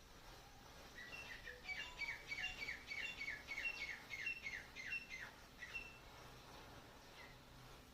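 A bird calling: a quick run of short, falling chirps, about three a second, that starts about a second in and stops about six seconds in.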